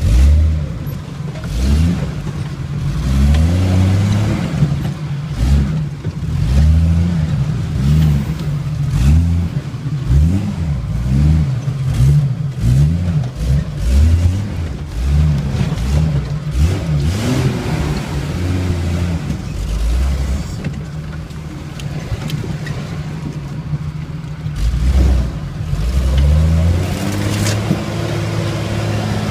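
Jeep engine heard from inside the cab while off-roading, revving up and easing off again and again, with frequent knocks and rattles from the vehicle body.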